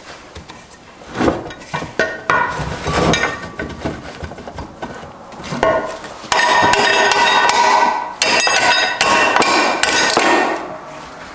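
Loud metal-on-metal hammering and clanging on steel transmission parts, with ringing after the strikes: a few separate blows first, then a long loud stretch of continuous clanging in the second half.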